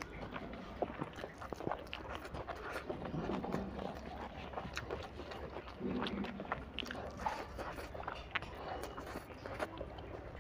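A person chewing mouthfuls of fried egg noodles eaten by hand, with many small irregular clicks and wet mouth smacks.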